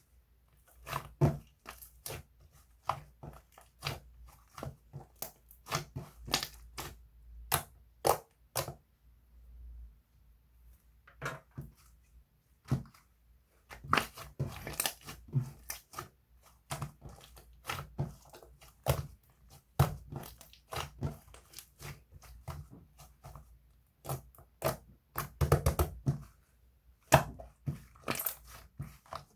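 Irregular crunching and crinkling noises: sharp crackles and clicks, single and in quick clusters, at uneven intervals.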